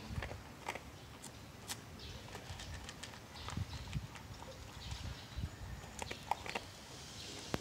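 A dog eating: irregular crunches and clicks of chewing, with a few low thumps.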